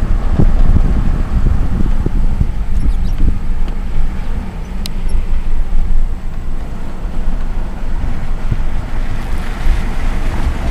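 Car driving along a road: a steady, uneven low rumble of road and engine noise, with wind on the microphone.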